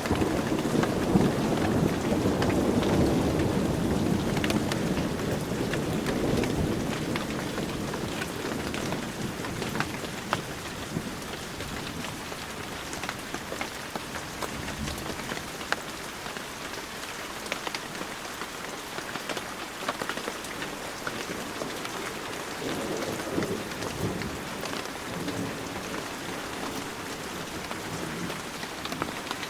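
Heavy rain falling steadily, with many small drops ticking on surfaces. A low roll of thunder at the start dies away over several seconds, and a fainter rumble swells up again later on.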